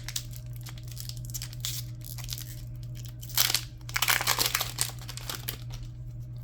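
Foil wrapper of a Pokémon booster pack crinkling as it is handled and torn open, with louder rips a little past the middle.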